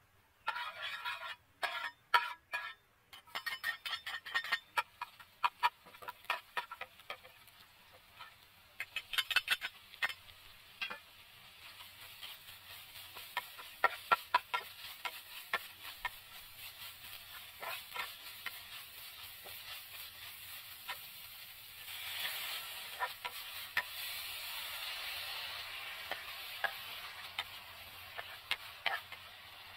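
Garlic and a yellow spice paste sizzling in hot oil in a nonstick frying pan. The food hits the oil with a loud sizzle about half a second in, and a metal spatula scrapes and taps the pan as it is stirred. The sizzle becomes a steady hiss that grows louder about two-thirds of the way through.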